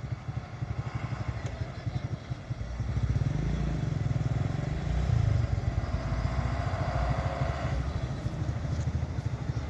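A motor vehicle engine running nearby with a steady low throb, growing louder from about three seconds in.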